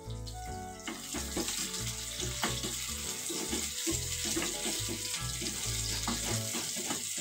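Sliced onions sizzling in hot mustard oil in a metal kadai, the hiss swelling about a second in, while a wooden spatula stirs them with repeated scrapes and knocks against the pan. Background music with a steady bass line plays underneath.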